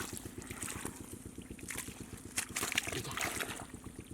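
Water sloshing and splashing as it is worked through by hand, with several sharper splashes about two and a half to three and a half seconds in.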